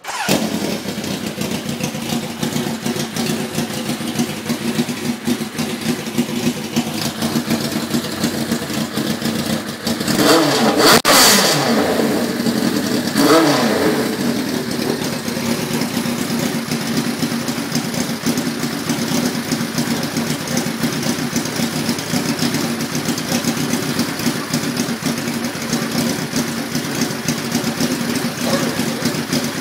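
Suzuki GSX-R1100 inline-four motorcycle engine idling through a SuperTrap exhaust tip. It is revved twice, about ten and about thirteen seconds in, the pitch rising and falling back to a steady idle each time.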